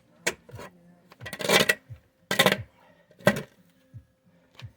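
Metal shovel scraping and scooping loose dirt: about five short scrapes and knocks roughly a second apart.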